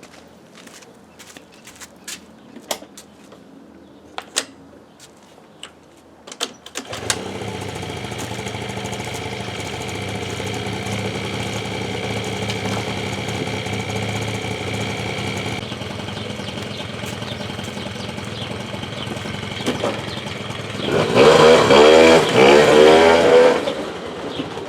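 Suzuki Lets 2 scooter's small two-stroke engine, just overhauled, starting after a few clicks and running steadily. Near the end it is revved up and down a few times.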